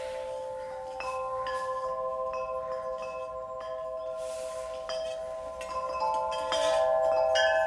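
Nature's Melody 42-inch wind chime, its long metal tubes struck and ringing in several sustained, overlapping tones. New strikes come about a second in and again near the end, where the ringing grows louder.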